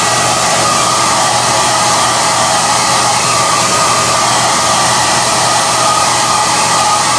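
SOUNATE high-airflow hair dryer running steadily: a loud, even rush of air with a steady motor whine.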